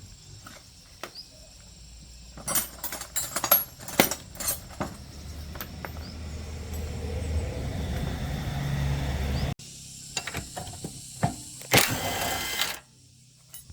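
Workshop work on motorbike parts: scattered metallic clicks and knocks, a low hum that builds and then cuts off abruptly, and a loud one-second burst of noise near the end.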